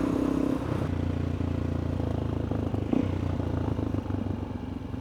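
Suzuki DR-Z400E single-cylinder four-stroke motorcycle engine running steadily at low speed, its note dropping a little under a second in.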